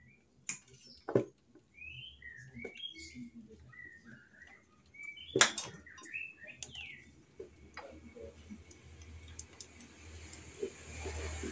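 A small bird chirping in a quick run of short notes, broken by a few sharp metal clinks of hand tools on the motorcycle engine, two of them loud.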